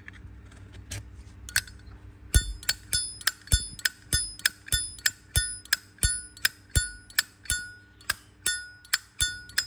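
Silver-plated Zippo lighter's lid being flicked open and snapped shut over and over: a few scattered clicks, then from about two and a half seconds in a steady run of sharp clacks, about three a second, each followed by a bell-like metallic ring. That clear chime is the sign of a good lid and hinge.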